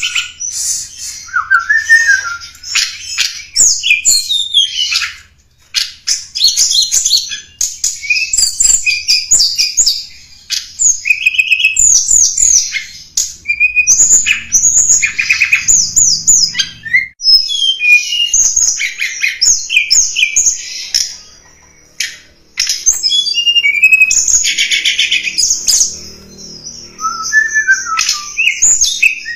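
Tledekan gunung song played as a bird-lure recording: rapid high twittering and trilled chattering in runs of several seconds, broken by short pauses.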